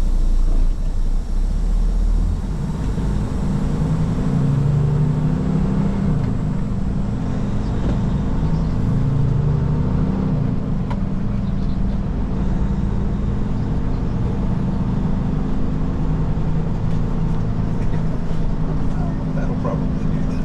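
Heavy semi truck's diesel engine pulling a loaded lowboy trailer, with a deep rumble at first. The engine note rises and falls several times in the first half as the truck works up through the gears, then runs more steadily.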